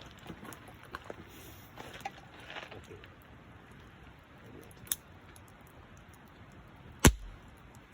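Campfire crackling with light, scattered pops and ticks, then a single sharp knock about seven seconds in, much the loudest sound.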